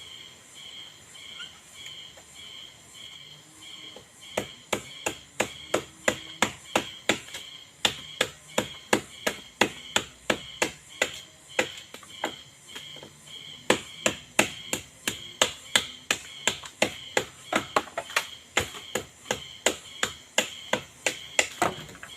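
Rapid, repeated strikes of a hand tool on wood, about three a second, starting a few seconds in and pausing briefly midway, typical of chopping or hammering during shelter building. Insects chirp steadily in a pulsing rhythm behind them.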